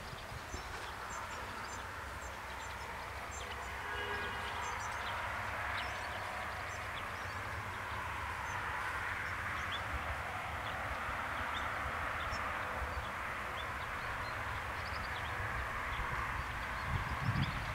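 Passenger train approaching a closed level crossing, its running noise swelling steadily and a low rumble arriving near the end.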